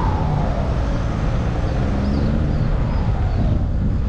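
Wind buffeting the microphone and tyre rumble while riding an e-bike along a track, a steady low rumble, with a faint falling whine twice.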